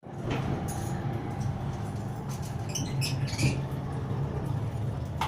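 Yellow Indian ringneck parakeet giving short, high squeaks and chirps, several in a quick cluster about two to three seconds in, over a steady low hum.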